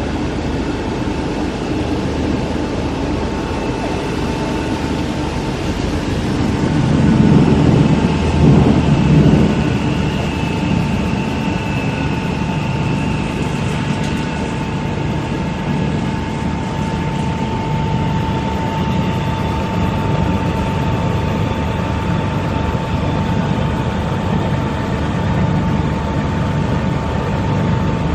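Animal feed grinder-mixer machine running with a steady mechanical hum and a constant whine. It gets louder for a couple of seconds about seven seconds in.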